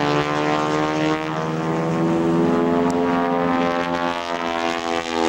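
North American SNJ (T-6 Texan) flying overhead, its 600-horsepower Pratt & Whitney R-1340 radial engine and propeller droning steadily. The pitch wavers slightly up and down.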